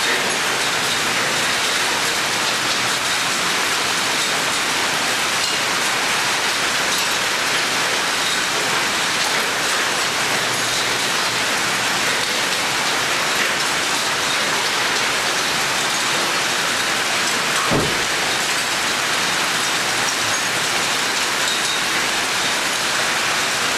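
Heavy rain pouring steadily and hammering on surfaces, with one brief dull thud about three-quarters of the way through.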